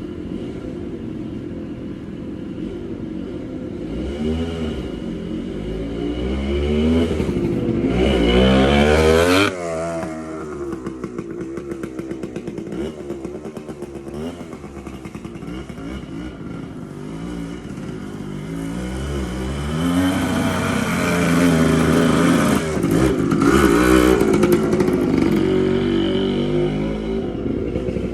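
Suzuki TC125 two-stroke single-cylinder dirt bike being ridden: the engine revs up, drops off suddenly about nine and a half seconds in and pops rapidly on a closed throttle, then revs up again from about twenty seconds in. The engine is running well after a carburettor clean.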